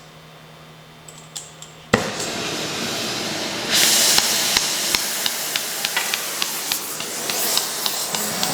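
A torch lit with a sharp pop about two seconds in, then the steady hiss of its flame, turned up louder near four seconds, with small ticks over it; it is heating an aluminum transfer case so a worn bearing will drop out.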